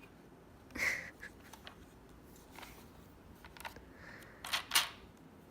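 Scattered plastic clicks and handling noises from a vacuum cleaner's floor-brush attachment being handled, with a couple of sharper clicks near the end.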